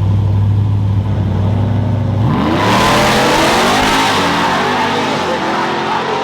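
Drag-race truck engine with a steady low, heavy drone, then about two seconds in it revs hard, its pitch climbing, with a sudden rush of noise as at a launch from the line.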